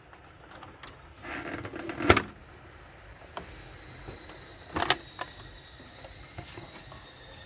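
Plastic body panel of a motorcycle being worked loose by hand: a scraping rustle that ends in a sharp click about two seconds in, another sharp click near five seconds, and a few lighter clicks and taps.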